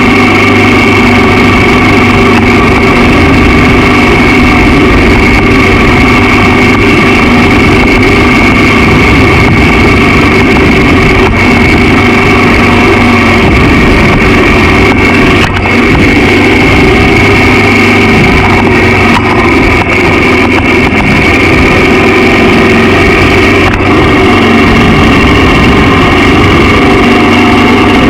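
Honda XR650L's air-cooled single-cylinder four-stroke engine running at a steady speed under way, loud and close, with wind noise underneath; the engine note steps slightly higher near the end.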